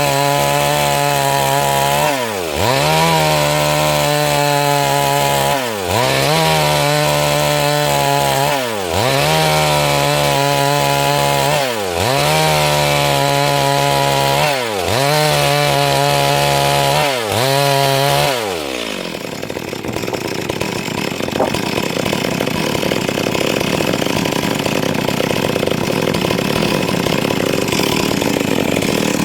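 Stihl MS 382 chainsaw ripping a log lengthwise into boards, its engine note dropping and recovering about every three seconds. About two-thirds through, the pitch falls away and the sound turns to a steady, rougher noise without a clear note.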